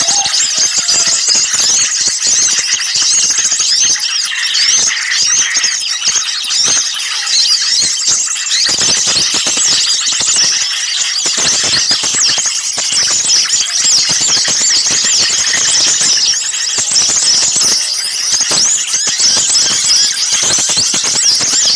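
Dense, unbroken chorus of many small songbirds chattering and calling at once, a flurry of rapid high-pitched chirps overlapping each other. It is a bird-lure recording of agitated small birds, played to draw other birds in.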